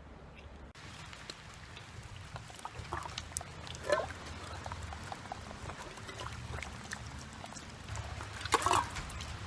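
Freezing rain ticking and pattering on a shack's roof and walls over a steady low rumble of storm wind, with a few short squeaks, the loudest near the end.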